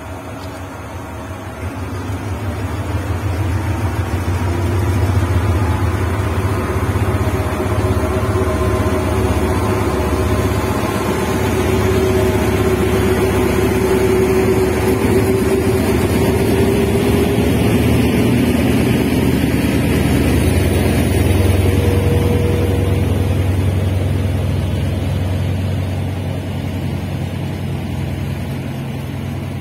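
Passenger train passing close by, led by a State Railway of Thailand Hitachi diesel-electric locomotive. The engine's low rumble builds over the first few seconds and holds as the locomotive goes by, then the coaches roll past on the rails and the sound eases a little near the end.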